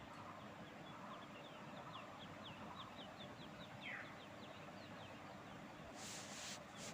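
A bird calling faintly: a run of short, high, falling peeps, a few a second, lasting about four seconds. A brief rush of noise comes near the end.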